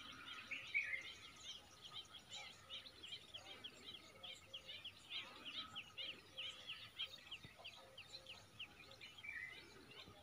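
Faint outdoor ambience of small birds chirping, a quick run of short high chirps several times a second, with a longer warbled note about a second in and another near the end.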